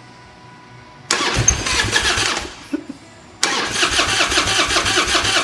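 1997 Harley-Davidson Evolution V-twin cranking on its electric starter in two bursts, the second longer, without catching. The engine turns over but won't start: the injectors are being told to fire, and the owner suspects they are plugged and not delivering fuel.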